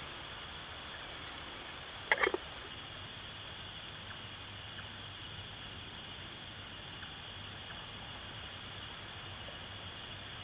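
Night insect chorus of crickets: steady high-pitched trilling, with one high trill dropping out after about two and a half seconds. A short, loud sound comes about two seconds in.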